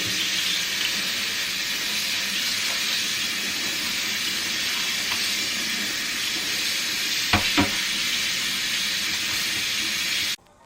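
Food sizzling in a hot frying pan, a steady hiss that cuts off suddenly near the end, with two quick knocks of a utensil about seven and a half seconds in.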